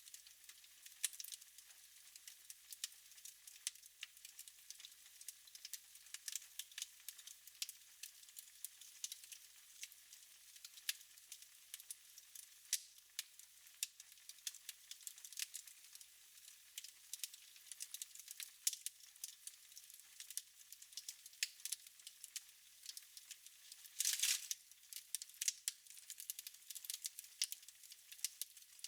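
Wood fire crackling in a fireplace: an irregular patter of small sharp pops and ticks, with a brief louder burst of crackling about 24 seconds in.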